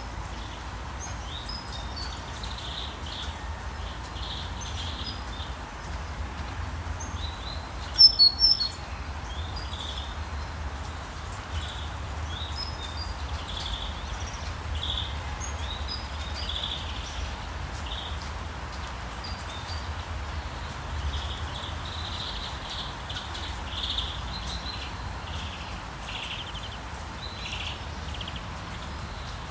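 Small birds chirping over and over against a steady low rumble and hiss, with a loud burst of sharp, high chirps about eight seconds in.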